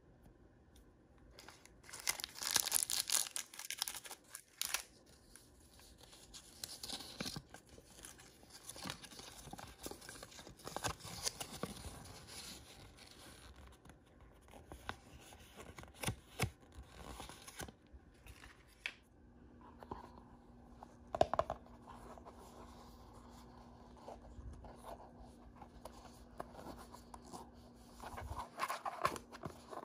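Toy blind-bag packaging being torn open and crinkled by hand. A loud stretch of tearing and crackling comes a couple of seconds in, followed by scattered rustles and small clicks.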